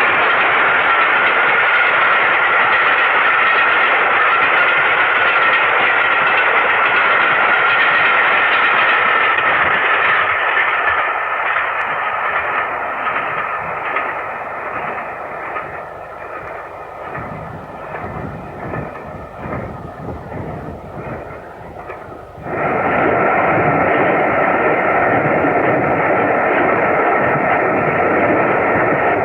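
LNER Class A3 steam locomotive Flying Scotsman hauling an express train at speed, with the steady running sound of the train. The sound drops lower for several seconds in the middle, then cuts back in suddenly at full level about two-thirds of the way through.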